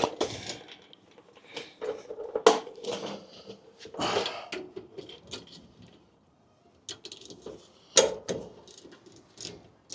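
Metal hand tools and brake hardware clinking and clanking at irregular intervals, with a ratchet wrench worked by hand on the rear brakes of a Ford F-150.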